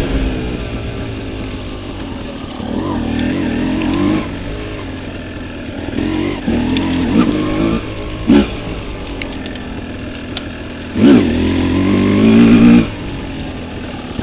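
Off-road motorcycle engine with the throttle opened and closed again and again: several revs that climb in pitch and drop back, the longest and loudest near the end.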